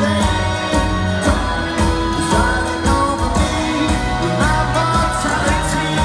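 A live rock band playing a song with a sung lead vocal over guitars and drums, heard through an audience recording in a large arena.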